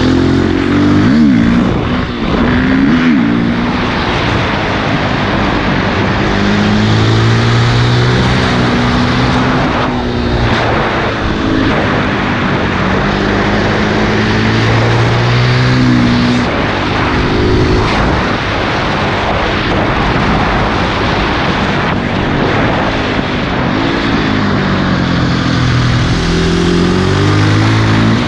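2006 KTM 450 EXC supermoto's single-cylinder four-stroke engine through an Akrapovic exhaust, revving up and dropping back again and again under hard riding, with a steady rushing noise beneath.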